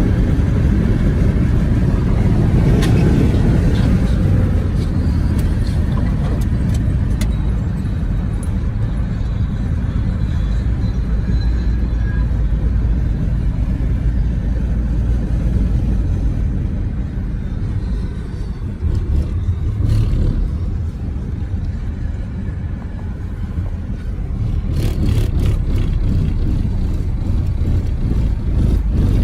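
Steady road and engine noise of a car driving on a highway, heard from inside the cabin, with a few faint clicks and knocks.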